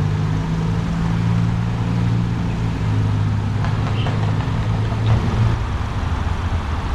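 Motor vehicle engine running steadily with a low hum, which changes and fades about five seconds in.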